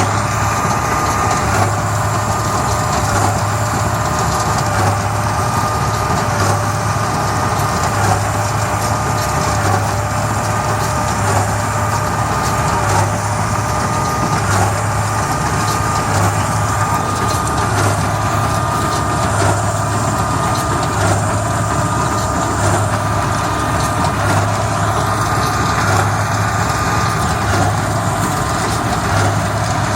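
Tractor engine running steadily while a Hesston 4700 big square baler works behind it, with a regular pulse about every second and a half.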